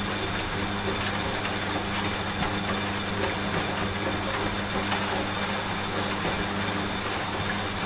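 Rain falling, with scattered drop ticks in a steady hiss, mixed with a washing machine running with a constant low hum.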